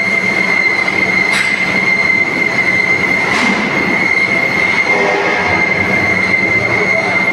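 Hydraulic band saw cutting through a metal pipe: the blade runs with a steady high squeal over a continuous grinding rasp, with a couple of brief sharp ticks.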